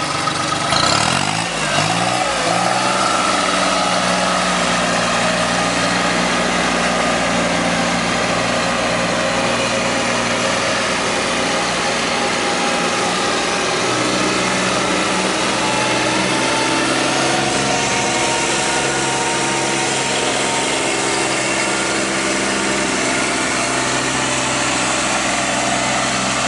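Kubota B7610 compact tractor's diesel engine running. Its speed swings down and back up in the first few seconds, then it runs steadily.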